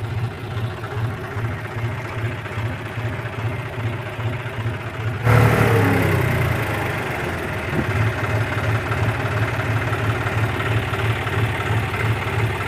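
John Deere 5045's three-cylinder diesel engine running at idle with a steady low pulse. About five seconds in it becomes suddenly louder, then settles back to idle over the next couple of seconds.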